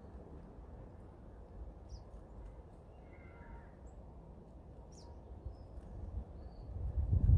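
Garden birds giving a few short, high chirps and one faint call, over a steady low rumble that grows much louder near the end.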